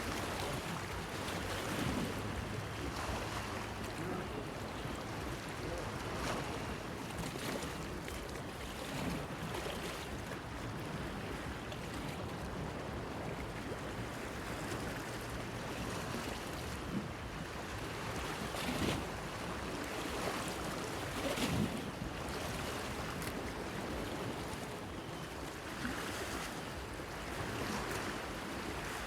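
Waves washing and splashing against a stone pier, an uneven, continuous wash with irregular swells. A faint low hum comes and goes beneath it.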